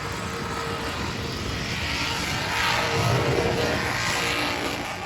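A vehicle engine running steadily under a broad rush of noise, swelling a little partway through and dropping off near the end.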